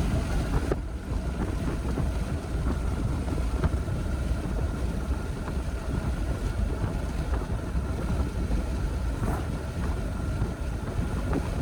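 Strong wind buffeting the microphone, a dense steady low rumble that cuts off suddenly at the end.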